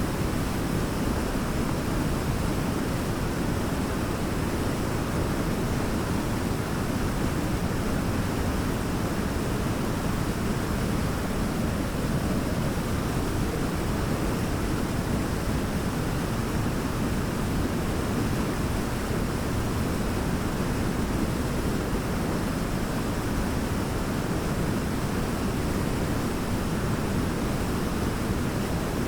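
Large waterfall, a steady deep rushing of falling water with no breaks or changes.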